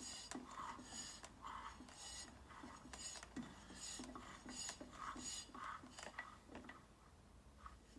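Faint metal clinking and scraping from hand work on engine parts, in short strokes about twice a second that thin out near the end.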